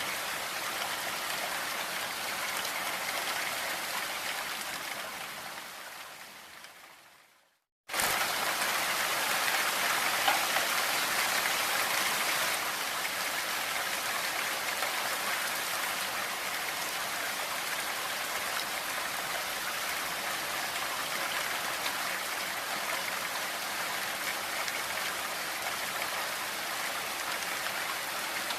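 Steady rain, a dense even hiss. It fades out over a few seconds to brief silence, then cuts back in abruptly about eight seconds in and keeps falling steadily.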